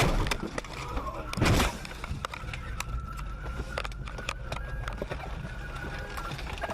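Steady vehicle rumble with scattered clicks, broken by a short, loud, harsh burst of noise about a second and a half in.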